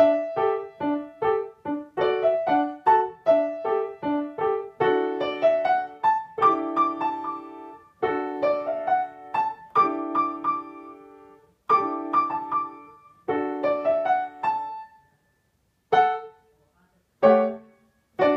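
A child playing a short beginner piano piece: quick phrases of bright single notes and small chords, slowing near the end to a few separate notes with pauses between them.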